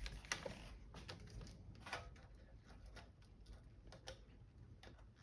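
Faint, irregular small clicks and taps: connectors and cables being handled and pushed back into the monitor's internal boards.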